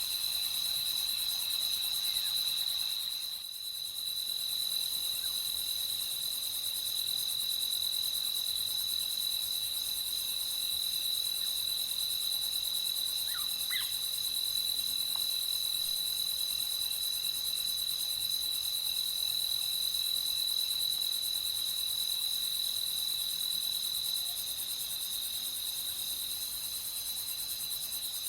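Night chorus of crickets chirping steadily in a high, continuous ring, dipping briefly about three and a half seconds in. A few faint short calls come through about halfway.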